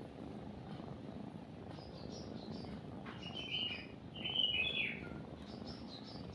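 Songbirds chirping over a steady low purr, with a couple of louder bird phrases a little past the middle. The purring is a kitten's, the sign of a kitten content while nursing.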